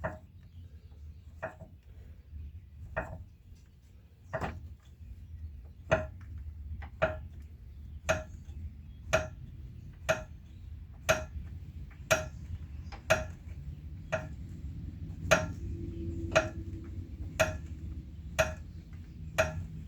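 A small jack being cranked under load against a bent car frame rail: sharp metallic clicks, about one a second, a little slower and more uneven in the first few seconds.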